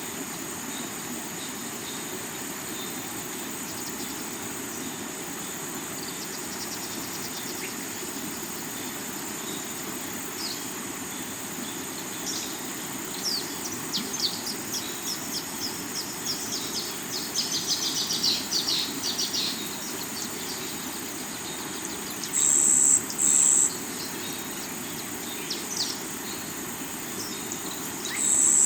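Steady rush of a rocky river's water under a constant high insect drone. From about twelve seconds in, a bird calls in quick runs of chirps, and twice, near the end, come pairs of short, loud, high buzzes.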